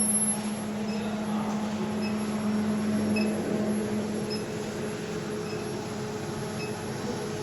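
Induction melting furnace running: a steady low hum under a thin, high, constant whine, with faint short pips about once a second.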